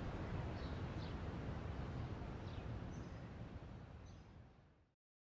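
Outdoor background noise with a few faint, scattered bird chirps. It fades out to complete silence near the end.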